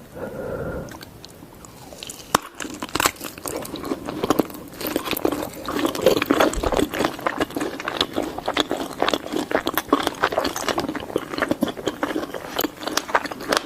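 Close-miked eating of sausages: biting and chewing with dense crunching and mouth clicks, starting about two seconds in and continuing steadily.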